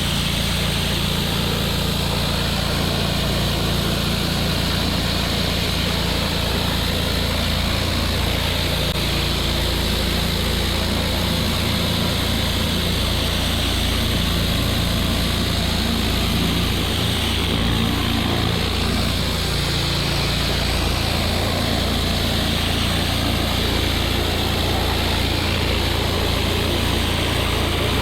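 Pressure washer engine running steadily under load, with a continuous hiss from the high-pressure water spray.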